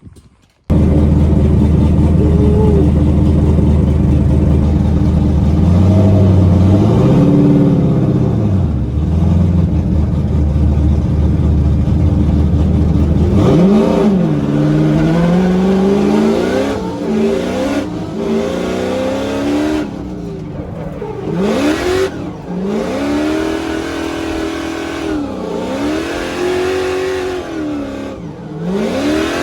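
High-horsepower drift car engine under load, holding a steady pitch at first, then revving up and down over and over, every two to three seconds, through the second half.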